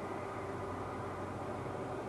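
Steady, even rumble of an Airbus A330's jet engines, with a low hum held underneath.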